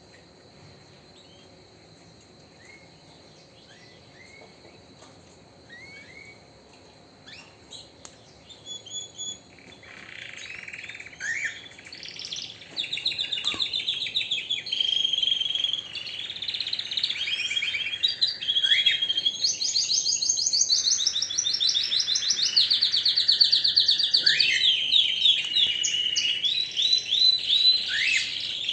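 Domestic canary singing: a few short chirps at first, then about ten seconds in it breaks into loud, continuous song of rapid trills and rising and falling notes.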